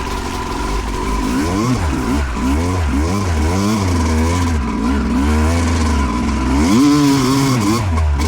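2008 Yamaha YZ250 two-stroke single-cylinder engine being ridden hard, revving up and falling back again and again as the throttle is worked, its pitch rising and dropping several times.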